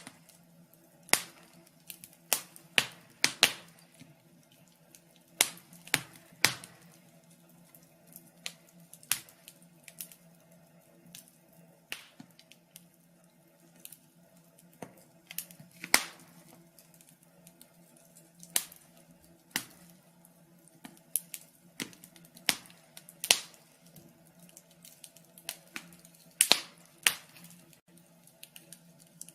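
Wood fire in a fireplace crackling, with irregular sharp pops and snaps over a faint steady low hum.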